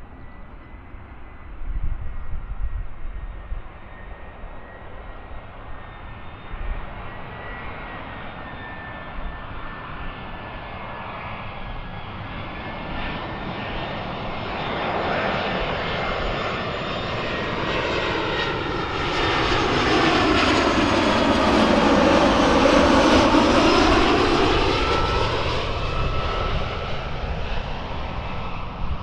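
Airbus A320-214 jet on landing approach, its CFM56 engines growing steadily louder as it passes close about three-quarters of the way in, then fading, with a faint high whine sliding slowly down in pitch.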